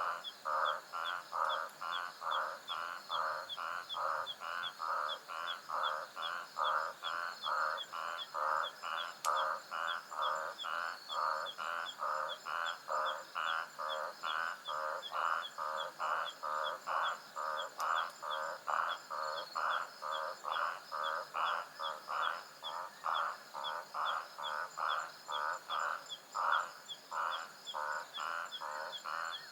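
Nocturnal savanna animal chorus. A rapid, very regular pulsing call, about two to three pulses a second, runs unbroken over a steady high-pitched insect trill.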